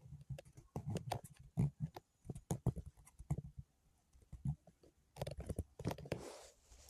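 Soft, irregular tapping and clicking, a few a second, with a denser run near the end, as of digital drawing input being worked quickly.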